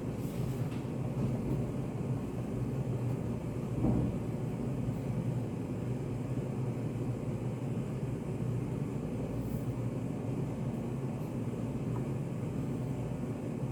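Study café room ambience: a steady low hum with no speech, with one brief soft sound about four seconds in and a few faint ticks.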